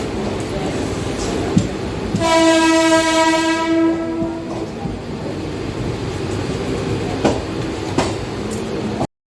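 Mumbai suburban local train running, with a single steady train horn blast held for about two seconds a couple of seconds in, and a few sharp clacks from the wheels and rails.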